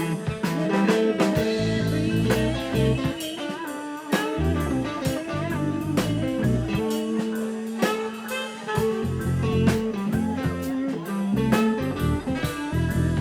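Live band jamming a bluesy groove: guitar lines over low bass notes and a steady drum kit beat.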